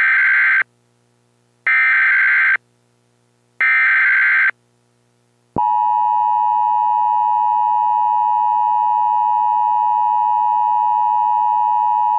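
Emergency Alert System broadcast tones: three short bursts of screeching digital header data about a second apart, then the long steady alert tone that announces a NOAA Weather Radio warning.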